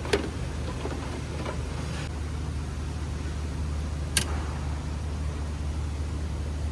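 Toyota Camry's 2AR-FE four-cylinder engine running steadily with a low hum, with two sharp clicks, one right at the start and one about four seconds in.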